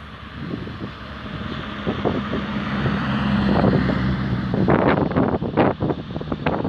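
Renault 8 Gordini's four-cylinder engine under hard throttle, getting louder as the car comes up the road toward the listener. Wind buffets the microphone in the last third.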